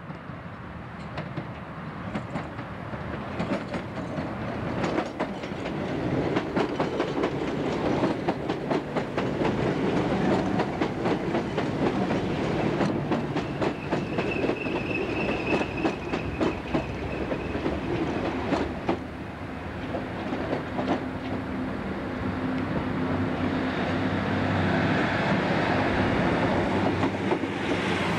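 Class 442 electric multiple unit running along the platform, its wheels clicking over rail joints above a steady rumble, with a brief high-pitched wheel squeal about halfway through. In the last third the clicks thin out under a steadier drone.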